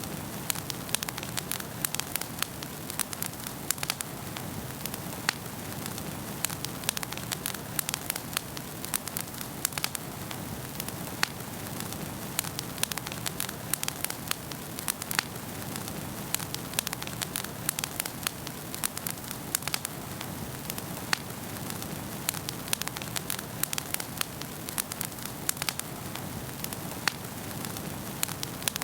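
Wood fire crackling in a fireplace: a steady low rush of flame with frequent irregular sharp pops and snaps.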